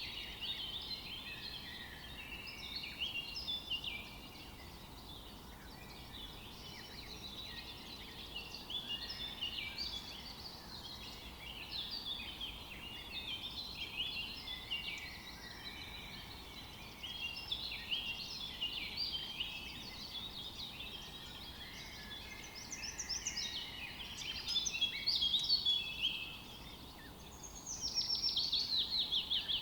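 Several songbirds chirping and singing together in a dense, overlapping chorus of short high notes and trills. Near the end comes a louder run of quick falling notes.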